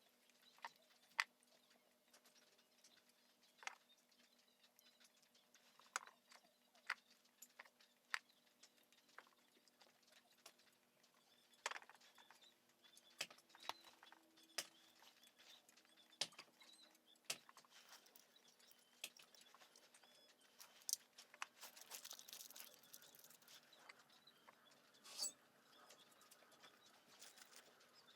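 Scattered small clicks, taps and clinks of tools and metal brake parts being handled during a rear brake caliper overhaul, over a faint steady hum, with a short hissing rustle about 22 seconds in.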